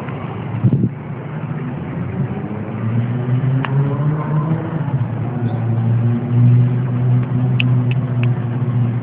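An engine running, its pitch rising over the first few seconds and then holding steady, with a few short clicks in the second half.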